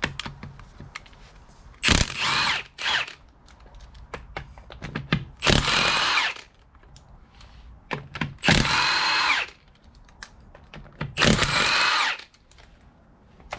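1/2-inch power drill driving a 3/8 socket through a reducer on a brake bolt. It runs in four short bursts of about a second each, its motor whine rising as each one starts.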